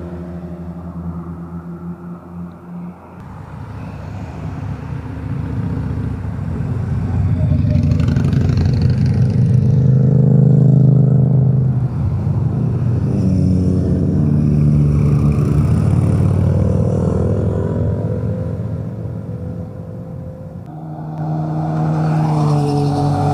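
Motorcycles riding past on a twisty road, their engines revving up and down through the gears. The sound grows louder to peaks in the middle, falls away, and swells again near the end as another bike comes through.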